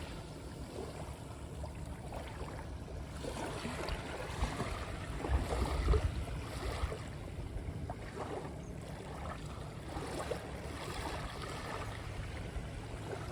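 Sea water washing and lapping, a steady rushing noise that swells louder around the middle.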